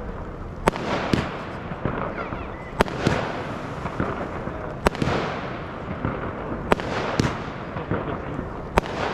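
Fireworks display: aerial shells bursting with sharp bangs about every two seconds, some followed by a smaller bang, over a continuous noisy background of other effects.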